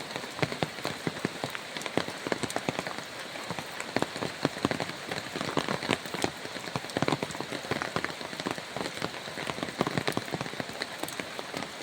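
Rain falling on a hard surface close by: a dense, irregular stream of separate sharp drop ticks over a steady hiss.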